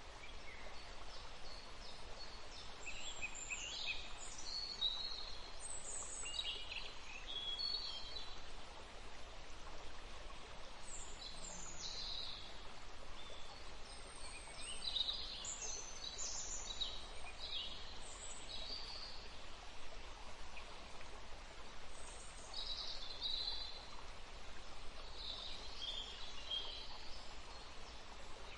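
Small birds chirping and twittering at irregular intervals over a steady, faint background hiss.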